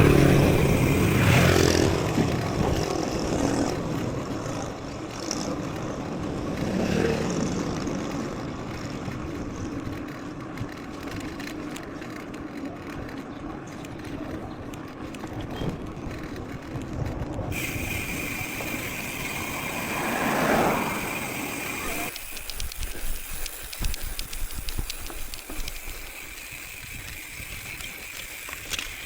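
Riding noise of a mountain bike on a trail, picked up by a chest-mounted action camera: steady rolling noise with rattles. The sound changes abruptly about 17 and again about 22 seconds in, and fine rapid rattling fills the last part.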